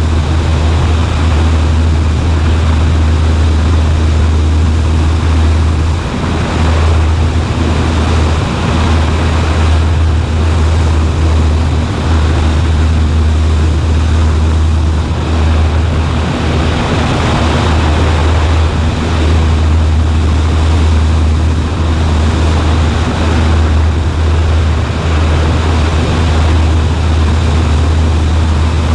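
Steady engine and propeller drone of a Cessna 140A in flight, heard in the cabin, with a rushing noise over it.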